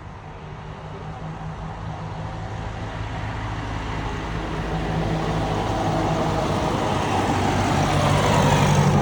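Tractor engine running as it approaches along the road, growing steadily louder and loudest near the end.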